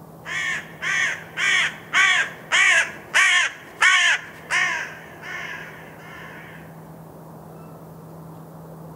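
A bird calling: a series of about eight loud, evenly spaced calls, roughly two a second, followed by two fainter ones before it falls silent.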